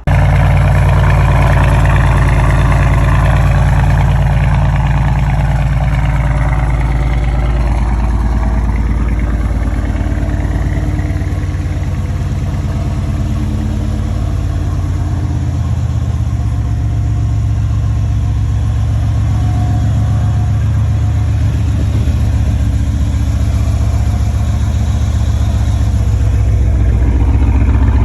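Mercedes-Benz CLS550's V8 running through an aftermarket exhaust: a loud, steady, deep drone that holds nearly the same pitch throughout.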